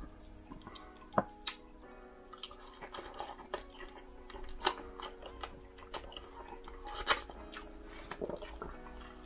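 Close-miked chewing of rotisserie chicken skin and meat: wet mouth sounds with scattered sharp clicks and smacks.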